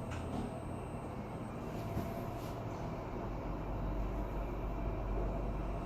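Toshiba passenger elevator car travelling between floors: a steady low hum and rumble of the ride, the low rumble growing stronger in the second half.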